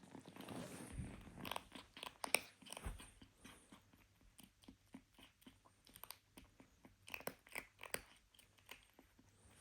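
Kitten chewing and crunching food, a fast irregular run of short crunches that is loudest in the first few seconds and again about seven seconds in.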